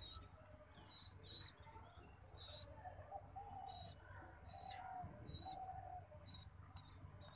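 Small birds chirping repeatedly, short high chirps about once or twice a second, with a few lower, longer calls in the middle.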